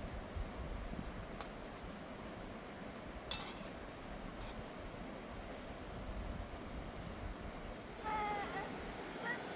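A cricket chirping steadily at about four chirps a second over a low rumbling background, with a few sharp clicks. About eight seconds in the chirping stops and a high, wavering call begins.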